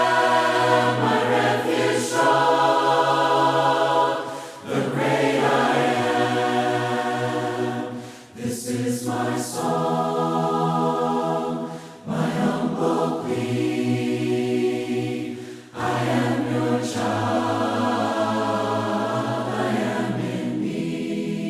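A choir singing a hymn a cappella in harmony: long held notes in phrases of about four seconds, with a short break for breath between them.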